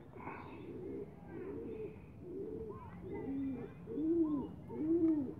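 A bird calling: a run of low, arched calls, about one every 0.8 s, growing louder toward the end, with fainter higher chirps over them.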